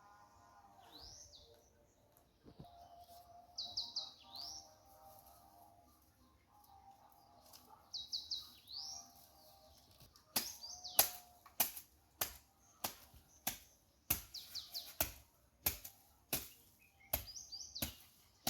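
Birds calling outdoors: short repeated phrases of high, quickly rising notes, with a fainter lower warbling call beneath. From about ten seconds in, a run of sharp, loud clicks or chips comes roughly one and a half times a second and is the loudest sound.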